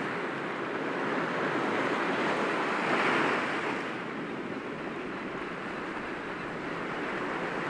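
Sea waves breaking gently against rocks: a continuous wash of surf that swells to a peak about three seconds in, then eases back.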